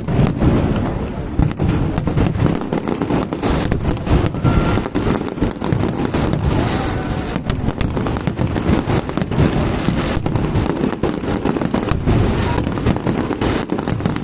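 Fireworks display: a dense, unbroken run of bangs and crackles, several to the second.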